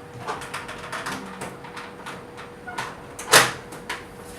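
Reassembled mini split air conditioner indoor unit running on a test with a steady hum, under a string of light clicks and knocks. The loudest is a sharp knock about three and a half seconds in. The owner judges it normal running noise, with nothing wrong.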